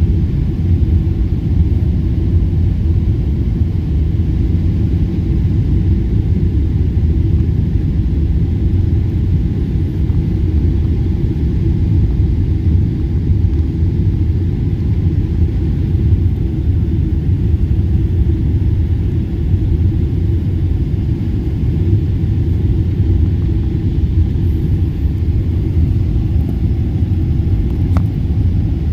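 Steady low rumble of a moving vehicle heard from inside, even and unbroken throughout.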